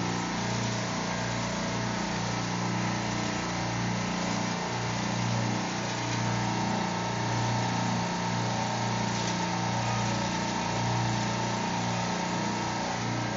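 Steady machine-room drone of a supermarket refrigeration rack's running compressors: a constant low hum with an even hiss over it, unchanging throughout.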